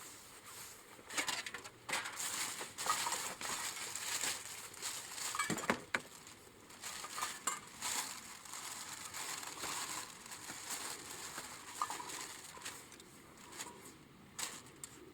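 Irregular crunching and crackling handling noises with sharp snaps and a few light clinks.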